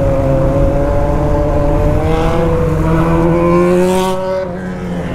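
2015 BMW R1200 GS flat-twin motorcycle engine running under way, its pitch rising as it picks up speed, then dipping in loudness briefly near the end.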